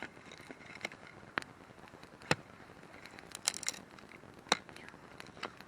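Wood campfire crackling: scattered sharp pops and snaps, with a quick cluster of small crackles about halfway through.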